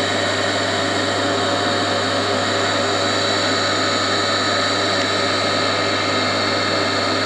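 Old single-phase induction motor running steadily at full speed, really loud, with a strong electrical hum and a steady whine above it.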